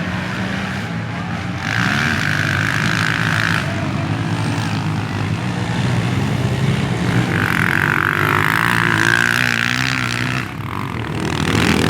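Racing motorcycle engines running, their pitch rising and falling as they rev. The sound gets louder and higher-pitched from about two to three and a half seconds in, and again from about seven and a half to ten seconds.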